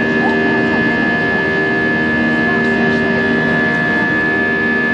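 Airbus A320-200 cabin during the climb: a steady jet-engine drone, with several constant humming tones over an even rush of air.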